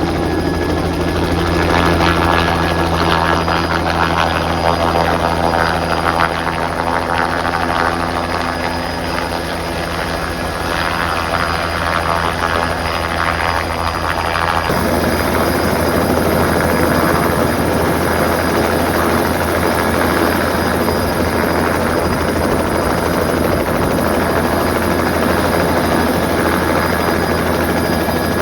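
Helicopter running overhead with a steady rotor and engine drone. About halfway through, the sound changes suddenly from a steady hum with clear tones to a rougher, noisier rush.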